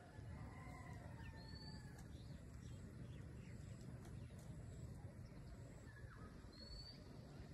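Faint rural outdoor ambience: a few distant bird calls, short high chirps about a second in and near the end, with some lower drawn-out calls in the first two seconds, over a low steady rumble.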